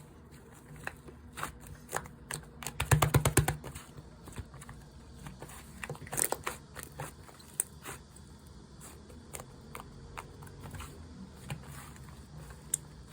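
Slime being squished and stretched by hand, giving scattered sticky clicks and pops. A fast run of loud pops comes about three seconds in.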